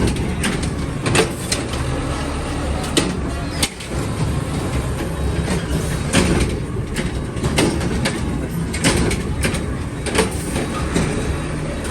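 Heard from inside an AMREP garbage truck: a steady low rumble from the truck in motion, with frequent irregular clunks and rattles.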